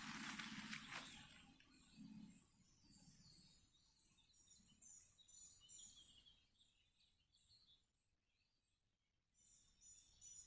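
Faint birds chirping outdoors, a few quick chirping phrases around the middle and again just before the end. At the start a louder noisy rush with a low hum dies away about a second in.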